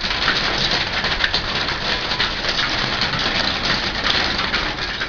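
Heavy hail pelting down: large hailstones striking hard surfaces in a dense, continuous clatter of many small hits.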